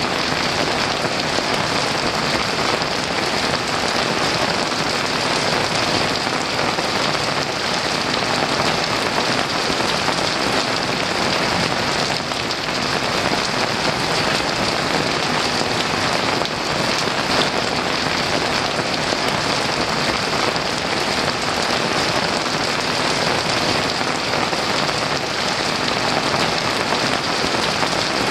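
Heavy rain falling steadily on a roof, an even unbroken hiss with no thunder.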